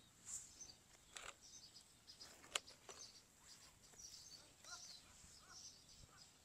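Near silence: faint, scattered bird chirps, with a few soft, sharp clicks.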